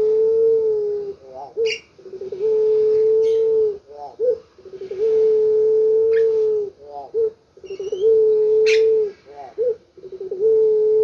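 Puter pelung dove (a domestic barbary dove kept for its long coo) cooing repeatedly: each call is a few quick stuttering notes followed by one long, steady coo held for over a second, about every two and a half seconds. Short sharp chirps sound between the calls.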